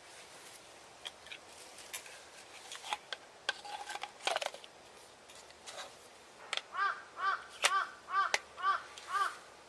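A crow cawing: a run of about seven arched caws, roughly two or three a second, in the second half. Before it come scattered sharp clicks and snaps.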